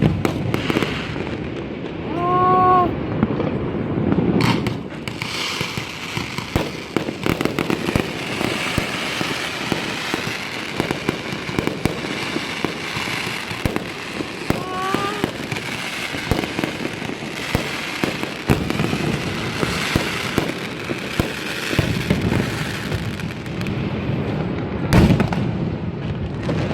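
Aerial fireworks display going off, a near-continuous crackle and popping of bursting shells throughout. Two brief pitched calls rise over it, about two seconds in and again about fifteen seconds in.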